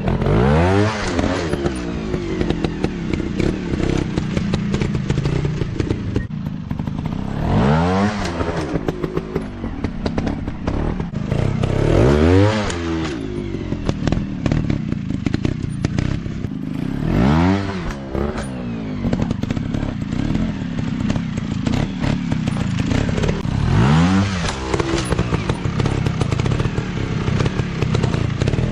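Dirt bike engines revving up and dropping back about five times, over a steady engine note, with many clattering knocks.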